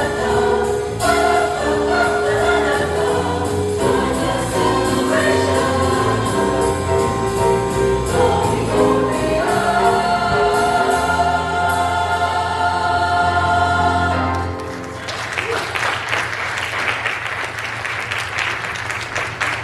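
Church choir singing a jazz-style Christmas song with accompaniment, ending on a long held chord; about three-quarters of the way through the singing stops and the congregation applauds.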